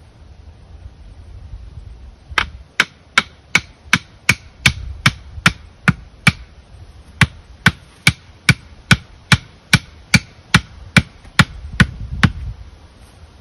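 A tool striking hard and repeatedly, chopping or hammering, about two and a half blows a second. There are some twenty strikes with a brief pause about halfway, stopping near the end.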